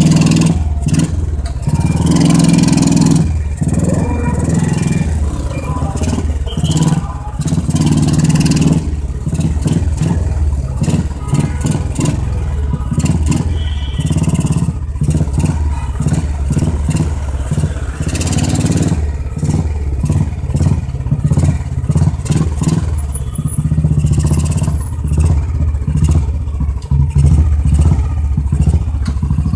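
Royal Enfield motorcycle on the move, its loud exhaust thumping, the note swelling and dropping as the throttle is opened and closed. Wind rushes over the helmet-camera microphone throughout.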